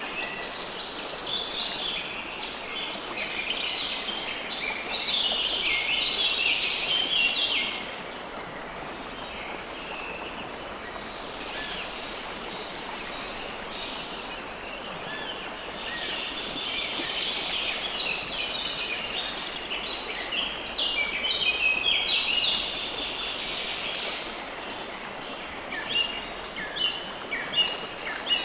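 River water flowing in a steady rush, with birds chirping over it in rapid high calls. The chirping comes in busy spells and eases off in between.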